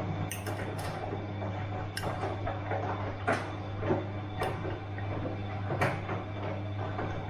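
Bosch washing machine running: a steady low motor hum with irregular sharp clicks and knocks from the turning drum, about six of them. The sound drops away sharply at the very end.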